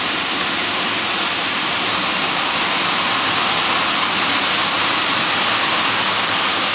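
Model railway trains running on the layout: a steady rushing hiss of wheels on track and motors as model Class 47 diesel locomotives haul a long rake of coaches.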